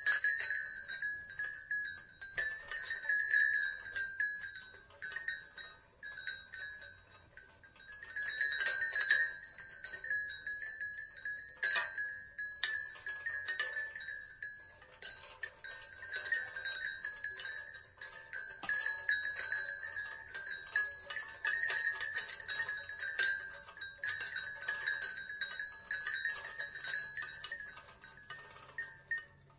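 Wooden wind chimes clacking together in uneven clusters, each knock ringing briefly at a few fixed pitches.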